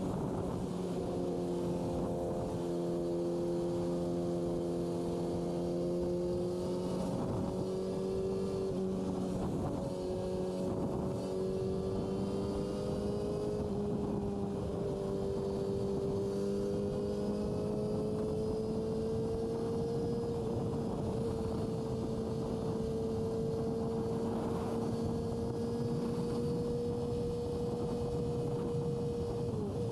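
Yamaha R6's inline-four engine running at a steady cruise, its note dipping and stepping slightly a couple of times, then climbing slowly and holding. A steady rush of wind and road noise runs underneath.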